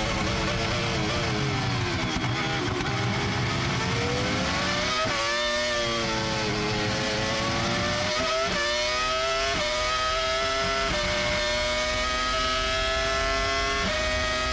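Formula 1 V10 engine heard onboard. The revs fall over the first few seconds as the car slows, then climb again through a series of quick upshifts, each a sudden drop in pitch.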